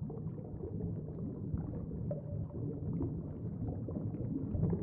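A low, steady rumbling background ambience with faint scattered crackles.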